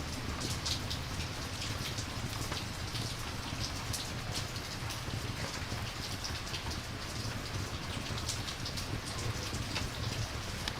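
Steady rain ambience: an even hiss of falling rain, mixed with a campfire's short, irregular crackles, several a second.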